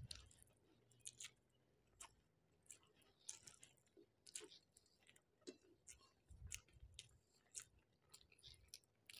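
Faint chewing and mouth clicks of a person eating a meal of rice and curry, irregular, about one or two small clicks a second.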